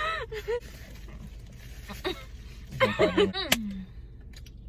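A person's wordless vocal noises, no words, in two short bursts: one at the start and one about three seconds in, the second ending in a low falling hum.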